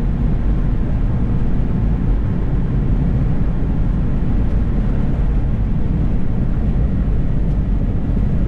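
Steady low road and engine noise heard from inside a moving car.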